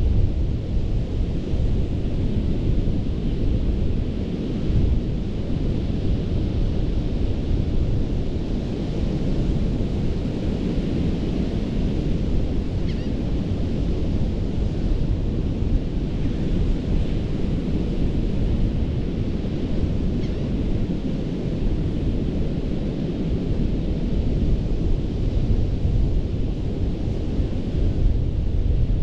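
Ocean surf washing in continuously, a steady noise of breaking waves with a heavy low rumble under a hiss of foam.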